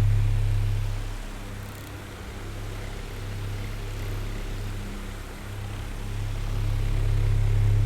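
Oscillating electric fan running steadily: a low motor hum under an even whir of airflow. The sound is loud at first, drops away after about a second and swells back up near the end, as the fan head sweeps away and back.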